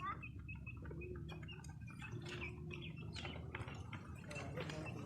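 Chickens calling softly with short scattered calls, over scattered faint clicks.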